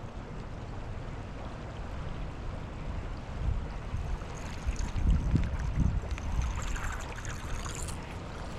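Water lapping and trickling against a small fishing boat's hull, with wind rumbling on the microphone and a few low thumps about five to six seconds in.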